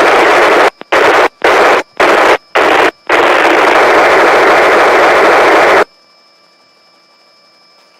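Police radio static: loud hiss in several short, choppy bursts, then one longer burst of about three seconds that cuts off suddenly, as a transmission breaks up.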